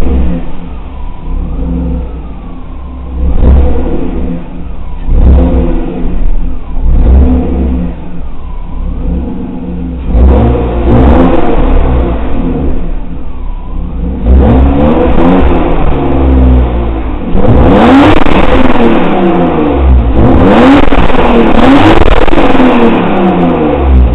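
BMW E34 525i's 2.5-litre 24-valve straight-six with Vanos being revved repeatedly: a few short blips, then longer revs rising and falling from about ten seconds in onward.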